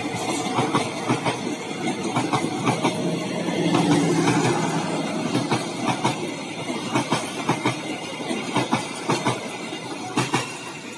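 A hauled train of passenger coaches and unpowered KfW electric-multiple-unit cars rolling past on jointed track, its wheels clicking over the rail joints again and again, fading toward the end as the last cars move away.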